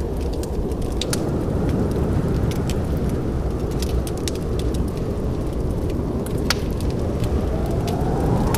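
Fireplace fire crackling: a steady low rush of flames with frequent sharp pops and snaps.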